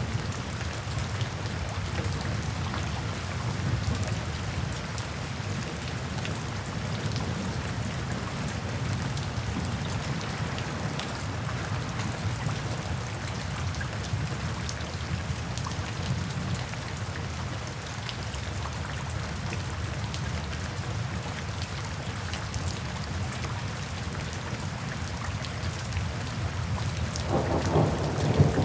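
Steady rain falling, with a deep background rumble throughout. A louder roll of thunder builds near the end.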